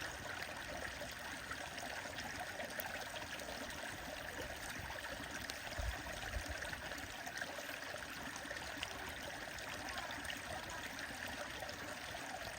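Stream water flowing steadily, with scattered faint clicks and a couple of low thumps about six seconds in.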